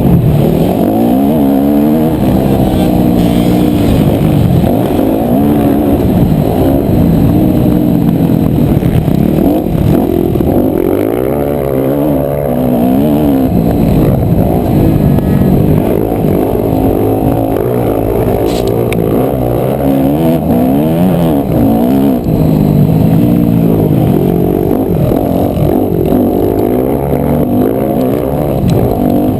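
250cc four-stroke single-cylinder motocross bike engine being ridden hard round a track, revving up and down over and over, its pitch rising and falling with throttle and gear changes.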